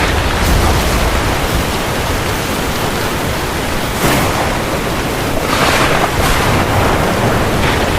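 Steady rain falling on the sea: a dense, even hiss, with brief louder surges about four seconds in and again around six seconds.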